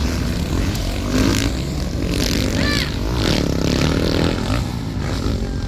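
Motocross dirt bikes racing on the track, their engines revving up and down as they pass, with a short high rising-and-falling tone about two and a half seconds in.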